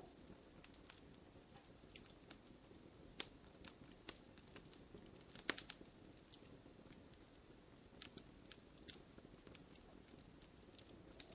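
Wood fire crackling softly in a fireplace: scattered sharp pops and snaps over a quiet steady hiss, with a small cluster of louder snaps about halfway through.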